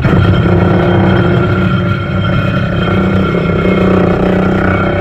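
An engine running loud and steady, starting abruptly and stopping about five seconds in.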